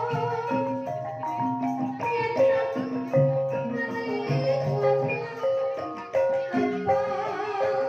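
Gamelan ensemble playing a Banyumasan gending in the ebeg style: interlocking struck metal mallet-instrument notes in a steady rhythm, with sharp percussive strokes every second or so.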